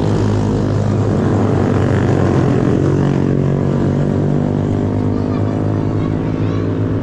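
Motorcycle engine running at steady revs while under way: a continuous low engine hum with a noisy hiss over it.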